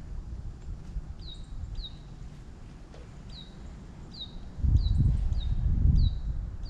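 A bird calling over and over with short, high chirps that slide downward, roughly two a second. About two-thirds of the way in, a loud low rumble joins it.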